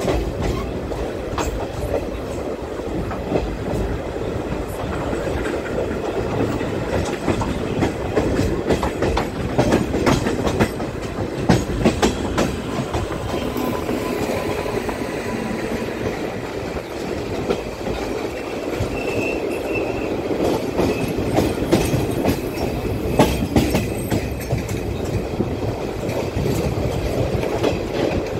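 Passenger train running, heard from an open coach doorway: a steady noise of wheels on rail with irregular clicks over rail joints. A brief high squeal comes in a little after the middle.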